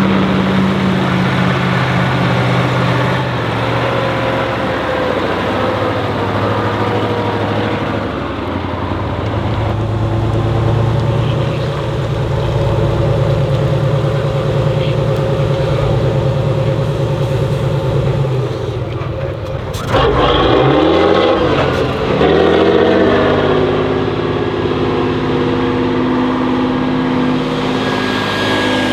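Heavy off-road trial truck's diesel engine working under load, its pitch shifting as it revs. About twenty seconds in the sound changes abruptly and an engine revs up with a rising pitch.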